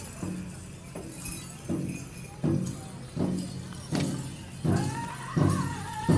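Powwow drum struck in a steady beat, about one stroke every three-quarters of a second, opening a chicken dance song; a high male lead voice comes in with a long held note about three-quarters of the way in.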